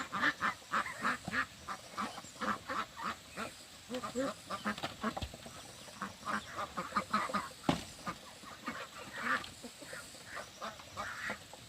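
A flock of ducks quacking, many short calls overlapping throughout, with a single sharp knock about eight seconds in.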